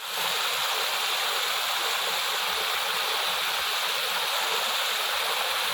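Steady rush of flowing water, an even hiss with no breaks, cutting in and out abruptly.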